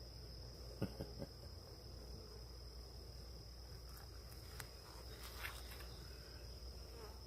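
Steady high-pitched trill of crickets chirping, with a few faint clicks and taps about a second in and again a few seconds later.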